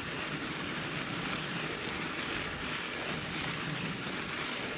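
Steady rushing noise of a mountain bike being ridden up a sandy dirt trail, tyres rolling and air moving over the microphone, with no distinct knocks or tones.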